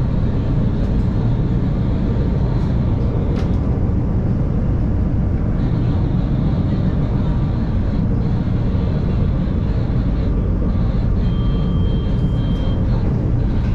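Chicago 'L' rapid-transit train running along the track, heard from on board: a steady rumble of wheels and car, with a few sharp clicks in the first few seconds and a brief high steady tone near the end.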